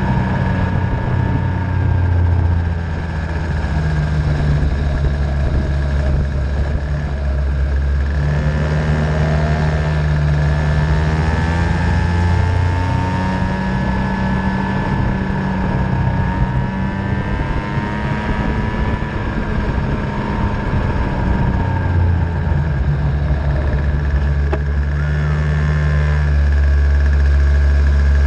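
50cc Venom racing engine running through a practice session, its revs rising and falling.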